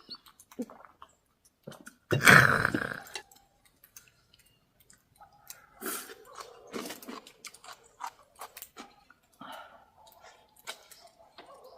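Close-up eating sounds of someone eating boiled chicken: chewing and wet mouth clicks. About two seconds in there is one loud, noisy burst lasting about a second.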